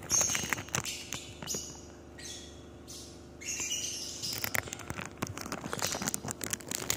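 Small birds chirping in bursts, with scattered clicks and rustles throughout.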